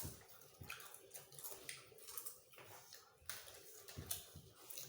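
Faint, irregular crackles and rustles of potato chips being picked up and crunched by mouth.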